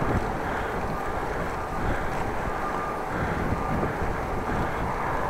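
Wind buffeting the microphone of a bike-mounted camera while riding into a headwind, a steady low rush of wind noise.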